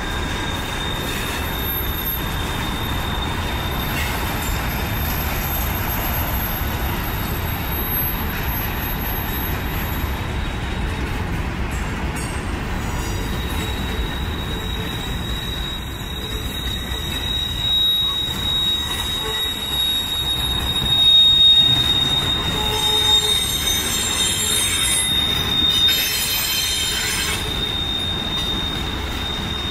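A train rolling past, a continuous rumble of the cars with a steady high-pitched wheel squeal. There are a few louder knocks in the second half.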